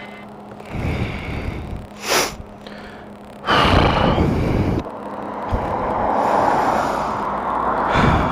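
Heavy breaths and exhales close to a helmet microphone over a low steady hum, with a louder rush of noise for about a second midway.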